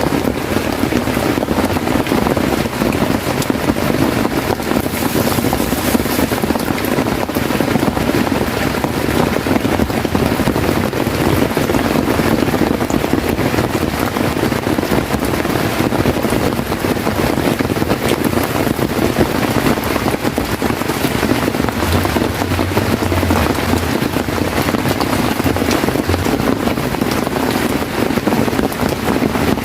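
Heavy rain falling steadily on a tent, a dense, even rush of noise.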